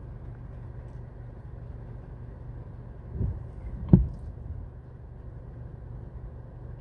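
Steady low background hum, with two dull knocks about three and four seconds in, the second one louder.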